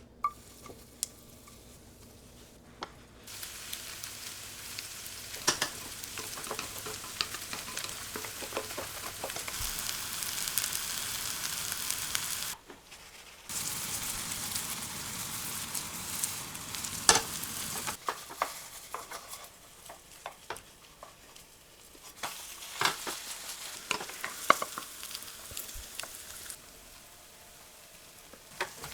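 Food sizzling as it fries in a pan, in several stretches that start and stop abruptly, with scattered sharp clicks of a utensil against the pan.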